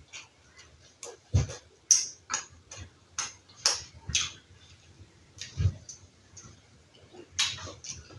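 Close-miked chewing and lip-smacking of a soft bread sandwich with fried egg: irregular wet smacks and clicks, with two low thumps, one early on and one about two-thirds of the way through.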